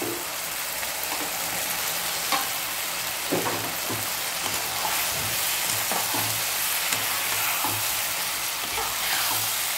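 Onion and tomato sizzling in hot oil in a kadai while raw potato pieces are stirred in with a spatula. The spatula scrapes and knocks against the pan every second or so.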